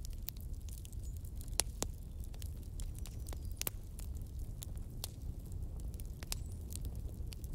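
A fire crackling: irregular sharp pops and snaps, a few each second, over a steady low rumble.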